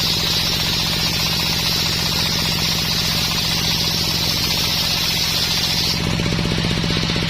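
Homemade circular sawmill cutting dense coconut wood: the engine drives the saw with a steady, fast-pulsing run, under a high, rough cutting noise from the blade in the wood. The cutting noise stops about six seconds in while the engine runs on.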